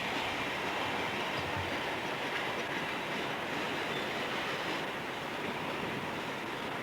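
Railroad cars rolling past on the track, a steady rolling noise without a break.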